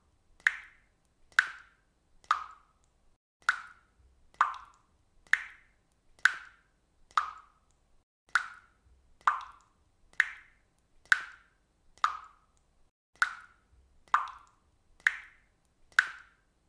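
Faucet dripping water, one drop plopping about every second in a steady rhythm, each drop slightly different in pitch.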